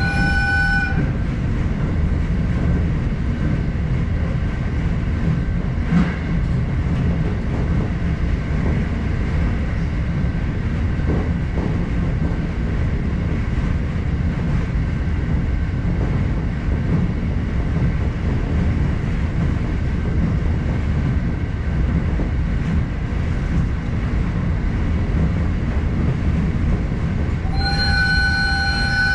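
Electric train running along the track with a steady low rumble of wheels and motors. Its horn sounds briefly at the start and again for about a second and a half near the end, with a single sharp knock about six seconds in.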